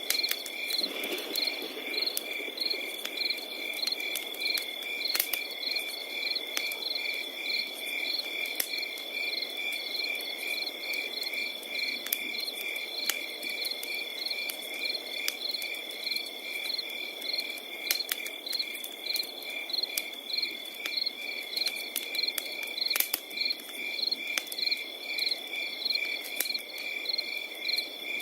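Crickets chirping without pause, a steady high trill with evenly repeating chirps layered over it, above a crackling wood fire with scattered sharp pops and a soft low rush of flame.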